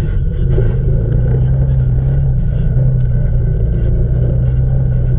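2008 Can-Am Outlander 800's Rotax V-twin engine running at a steady pitch, which steps up slightly about a second in and then holds.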